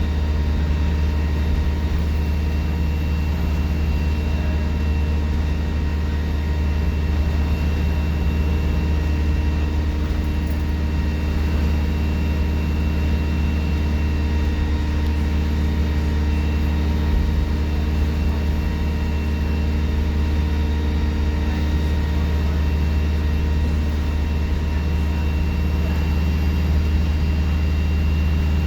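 Alexander Dennis Enviro 200 bus engine running steadily with a deep drone, and a thin, very high turbocharger whistle that gently rises and falls.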